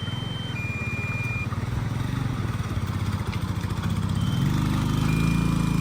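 Motorcycle engine running steadily, then picking up and running louder about four seconds in.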